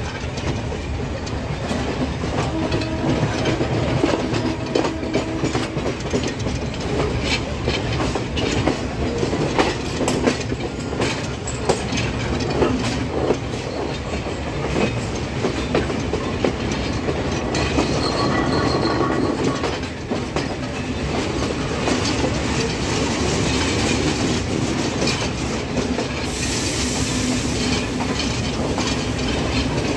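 Passenger train coach running along the track, heard from an open doorway: steady rumble of the wheels with clickety-clack over the rail joints and a few brief whines from the wheels.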